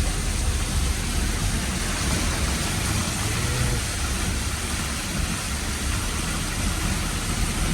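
Vehicle engine running steadily at low speed, heard from inside the cabin, with a low rumble under a constant hiss.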